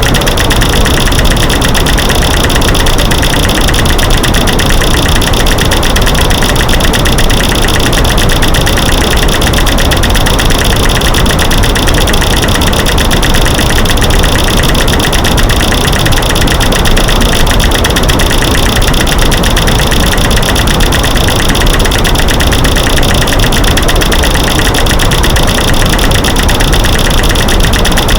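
A dense, unbroken stream of loud clicks and knocks over a white-noise hiss: a mix of light switches clicking, sticks snapping and rocks banging together. It runs at an even level without pauses.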